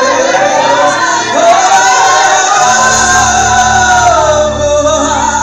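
A woman's voice singing long held, wavering notes over a live band playing a gospel song, in a large reverberant hall.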